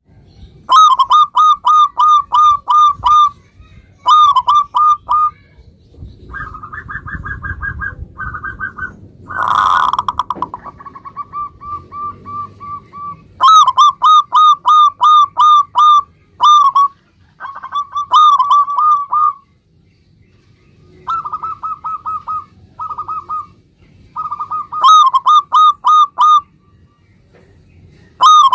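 Zebra dove (perkutut) cooing: bursts of rapid, evenly spaced staccato notes, repeated phrase after phrase with short pauses between. About ten seconds in there is a brief, louder, rougher sound.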